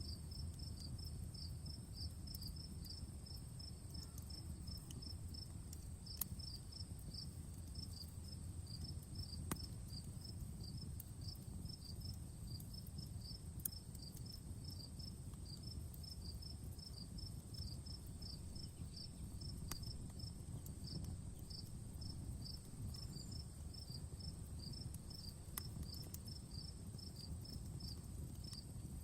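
Crickets chirping in a steady, rapid rhythm over a low rumble, with a handful of sharp crackles and pops from a campfire.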